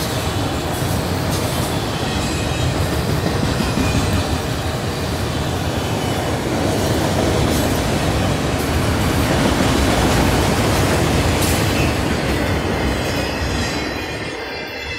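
Freight train of autorack cars rolling past close by: a steady rumble of wheels on the rails with occasional clicks, easing off near the end.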